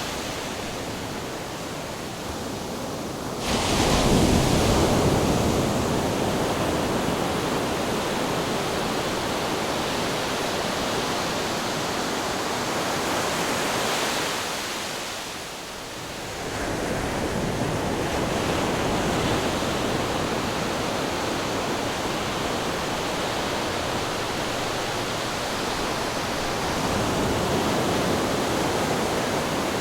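Ocean surf with wind: a continuous rushing noise that swells suddenly as a wave breaks about three and a half seconds in, fades briefly about halfway through, then builds again.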